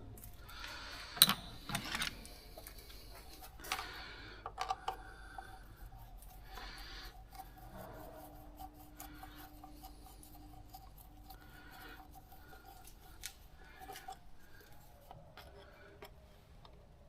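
Scattered clicks, taps and short scraping rustles of hands and tools working around the engine bay, with a faint steady tone in the background.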